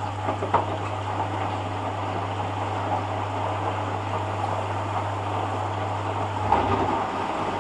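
Hoover Dynamic washing machine in its rinse stage: water rushing through the machine over a steady low electrical hum. The hum cuts out about six and a half seconds in while the water noise goes on.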